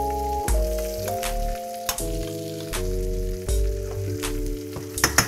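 Butter sizzling and crackling in a sauté pan as trout fillets fry meunière-style, with scattered sharp pops and a quick cluster of them near the end. Background music of held chords over a bass line plays underneath.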